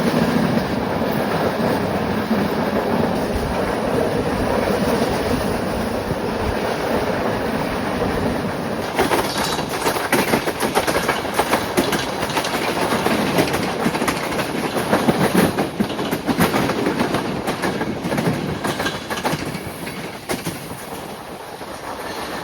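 Passenger train running along the track, a steady rumble of the carriage with rapid wheel clicks and knocks that become much busier about nine seconds in and ease off near the end.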